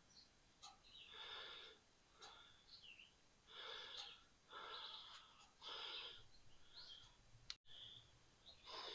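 Faint, rhythmic breathing of a person close to the microphone, about one breath a second, with a few faint bird chirps between the breaths.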